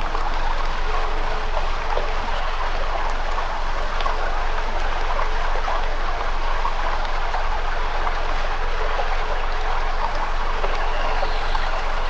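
Campfire burning with a steady hiss and a constant scatter of small crackles and pops.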